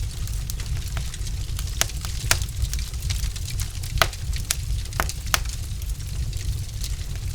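Wood fire crackling in a fireplace: irregular sharp pops and snaps, the loudest about four seconds in, over a steady low rumble.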